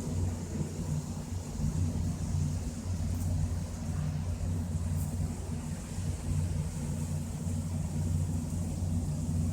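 Thunderstorm: a low, steady rumble of distant thunder, with a faint hiss above it.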